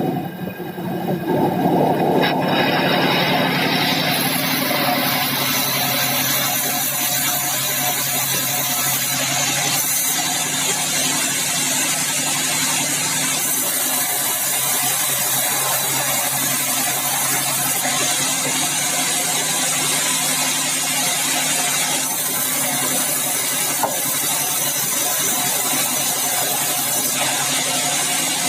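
Sawmill bandsaw running steadily: a motor hum under a high, even hiss that fills in a few seconds in and then holds.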